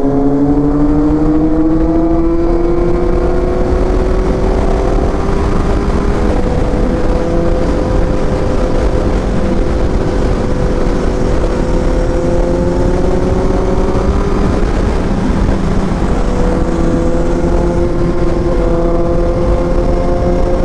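Kawasaki Z800's inline-four engine running on the move, its pitch climbing slowly as it pulls, levelling off, then easing away about fourteen seconds in before climbing again. A steady low wind rumble on the microphone lies underneath.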